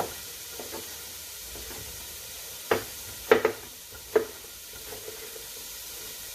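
Chopped onion sizzling steadily in olive oil in a pot, with four sharp knocks in quick succession around the middle as vegetables are handled at the pot.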